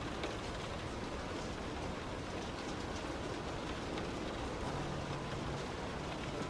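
Heavy rain pelting a moving car, a steady rushing hiss mixed with tyre and road noise, with a few sharper drop ticks.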